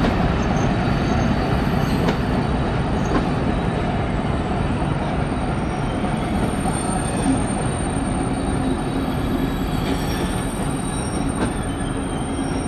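Passenger coaches hauled by a BDŽ class 55 diesel locomotive rolling slowly through the yard: a steady rumble with high wheel squeal and a few clicks of wheels over rail joints.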